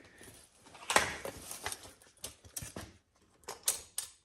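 Foamboard insulation being shoved onto a garage door panel: a run of irregular thumps and scuffs, the loudest about a second in, pressing it onto the bolt heads.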